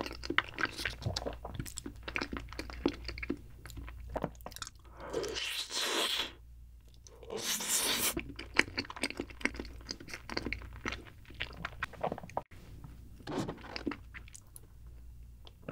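Close-miked chewing of a mouthful of cheesecake: a steady run of small wet clicks and smacks, broken by two longer rushing noises about five and seven and a half seconds in.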